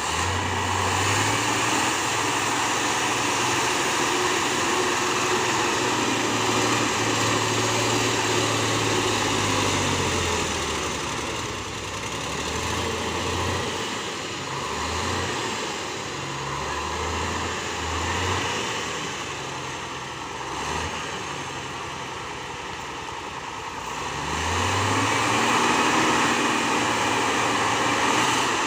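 Truck engine running under load, held steady for several seconds and then revving up and down in short surges, over a steady hiss.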